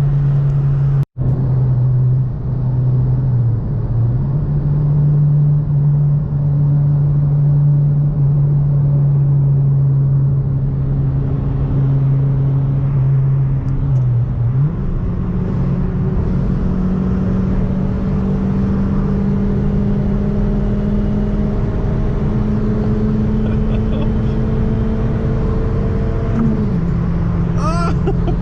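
1992 Toyota Paseo's 1.5-litre four-cylinder engine heard from inside the cabin while driving: a steady drone, then the revs jump about halfway through and climb slowly under acceleration before dropping near the end at a gear change.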